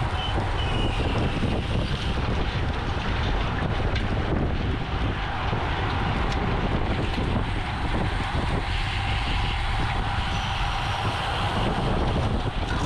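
Steady wind rushing over the microphone while riding a road bicycle at race speed, with tyre and road rumble underneath.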